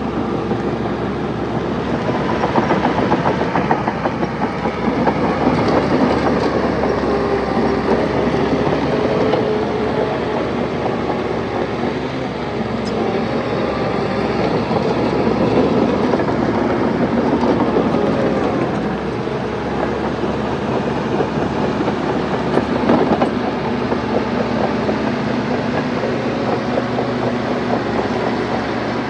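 Bulldozer working: its diesel engine runs steadily with a pitch that rises and falls under load, and its steel tracks keep up a constant rattling clatter.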